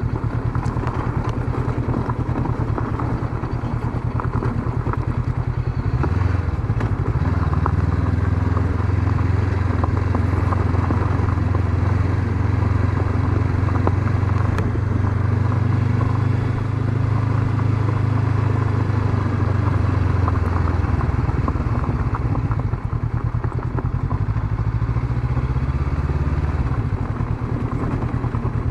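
Honda CB500X's parallel-twin engine running while the bike is ridden. The engine note changes about six seconds in, holds steady for a long stretch, then changes again past twenty seconds.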